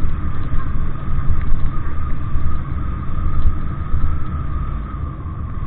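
Steady low rumble of a moving motor vehicle, with a constant tone held over it.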